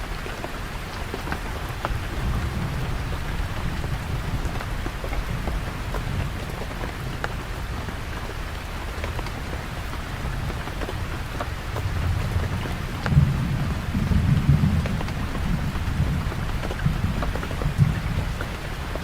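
Steady rain falling, with scattered drops ticking. A low rumble swells past the middle and peaks a few times.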